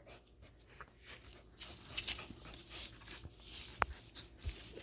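Faint scattered rustles and small clicks from young puppies moving about and being handled, with one sharper click about four seconds in.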